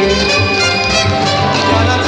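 A live dance orchestra playing Latin dance music, a held high melody line over steady percussion strokes.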